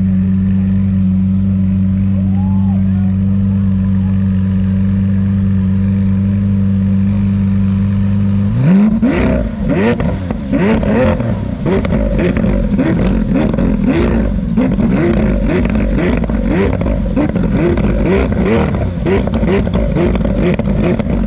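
A car engine running at a steady idle, then, from about nine seconds in, revved hard in quick repeated throttle blips, each a short rise and fall in pitch, with sharp crackles from the exhaust.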